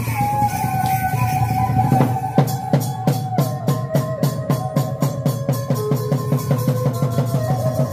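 Khmer chhay-yam ensemble playing: drums struck in a quick, steady rhythm of about four strokes a second, under a sustained, wavering melody line that slides between notes.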